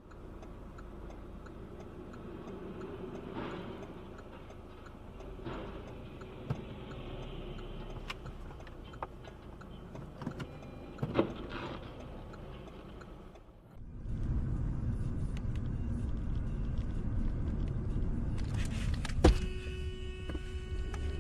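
Car interior road noise from a dashcam, with scattered clicks; after a cut it becomes louder road noise. About 19 s in there is a sharp loud bang, then a car horn sounds steadily.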